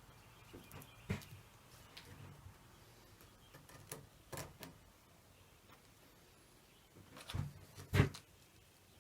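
Scattered light knocks and clicks of objects being handled, about six in all, the loudest pair close together near the end.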